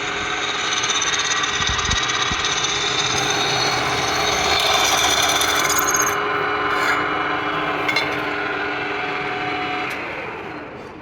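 A workshop power machine running steadily, with a rubbing, cutting sound of a tool working metal. It is loudest about halfway through and winds down near the end.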